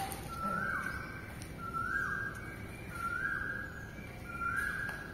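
A bird calling a clear whistled note over and over, about once a second: each note rises quickly, holds, then drops away. A single sharp tap comes right at the start.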